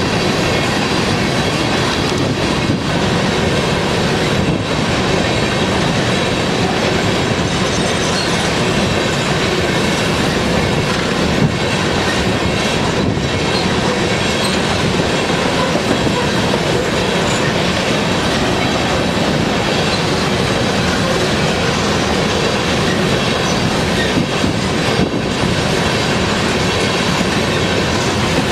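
Freight train of covered hopper cars rolling past on the rails, a steady wheel-on-rail noise with a few faint clicks.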